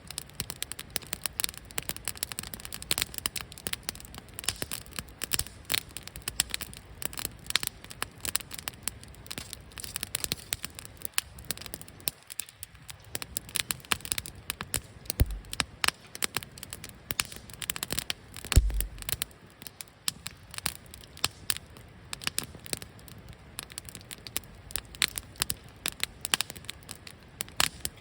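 Wood fire crackling and popping, a dense irregular run of sharp snaps, with two dull low thuds in the second half.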